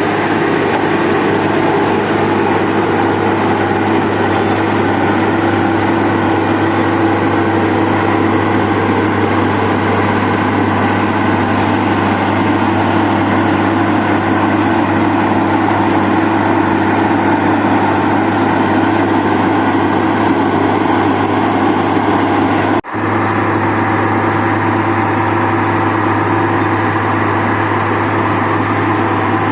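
Wirtgen 2100DC cold milling machine running steadily, a heavy diesel engine drone with loud mechanical noise over it. The sound drops out for a split second about three quarters of the way through, then carries on unchanged.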